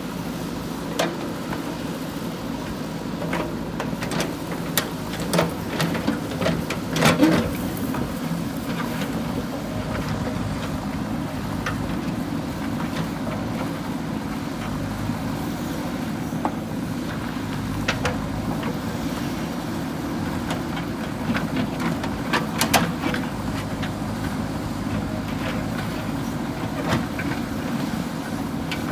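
JCB 3DX backhoe loader's diesel engine running steadily under work, with scattered sharp knocks and clanks, bunched about five to eight seconds in and again around twenty-two seconds.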